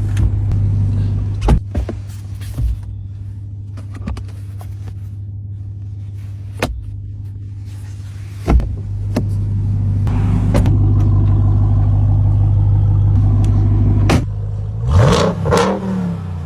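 Supercharged 6.2-litre V8 of a Ram 1500 TRX idling with a steady low drone, with scattered sharp clicks and knocks. Near the end the engine is revved briefly, its pitch rising and falling.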